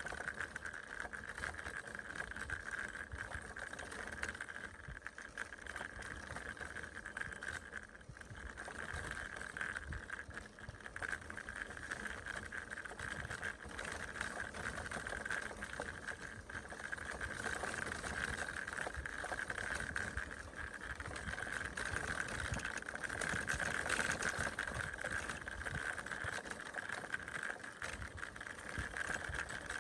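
A bicycle being ridden: steady rolling and drivetrain noise with a continuous high whir.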